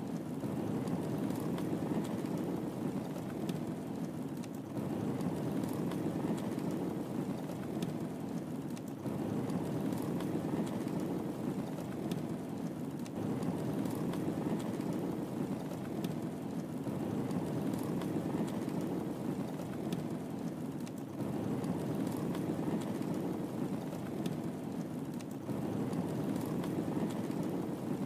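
Wood fire crackling in a fireplace: a steady low rush of flame with scattered sharp pops and snaps. The same few seconds repeat in a loop about every four seconds.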